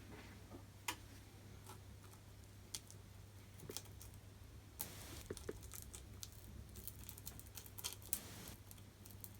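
Faint clicks and brief scrapes of small hand tools working at a phone display's frame, over a low steady hum.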